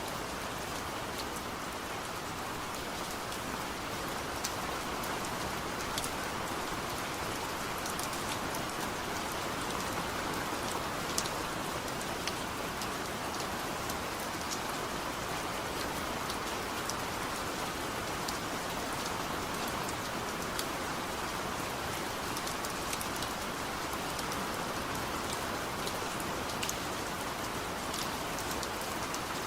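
Heavy rain falling steadily, with individual drops ticking sharply throughout.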